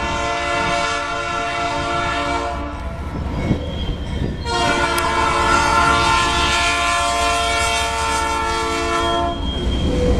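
Diesel locomotive horn on a Canadian National standard-cab Dash 8, sounding a multi-note chord: a long blast that ends about three seconds in, then after a short pause a second long blast of about five seconds. The low rumble of the passing train runs underneath.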